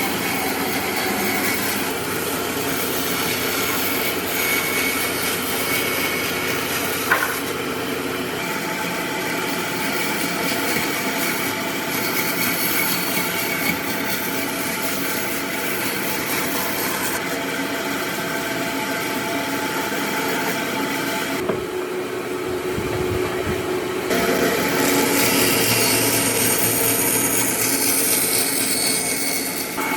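Power tool working wood: a steady motor whine over a grinding, rasping noise. The sound changes abruptly several times as one stretch of work gives way to another.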